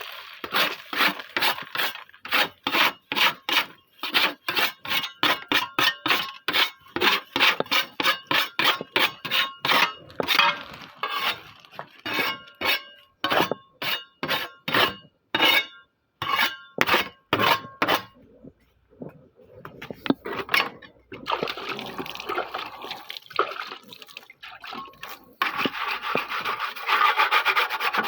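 Rhythmic rubbing or scraping strokes, about three a second, each with a faint ringing edge. They pause around eighteen seconds in and become denser and nearly continuous near the end.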